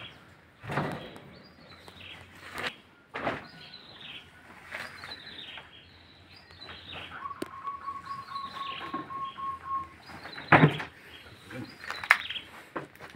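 A bird chirping over and over in short falling calls, about one a second, with a few loud knocks and thumps, the loudest about ten seconds in. A steady high tone is held for about three seconds in the middle.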